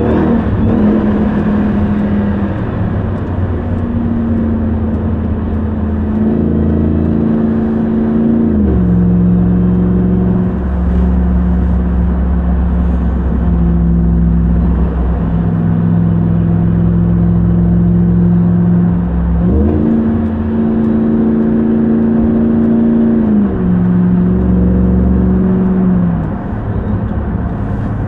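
A 2021 RAM 1500 TRX's supercharged 6.2-litre HEMI V8 running while the truck is driven at a steady pace. The engine note steps down about nine seconds in, jumps up around twenty seconds, then steps down twice near the end: gear changes.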